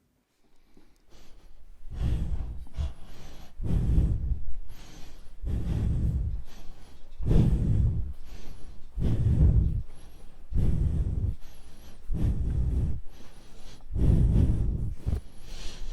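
A person breathing heavily and fast close to the microphone, about one loud breath a second, starting about a second in.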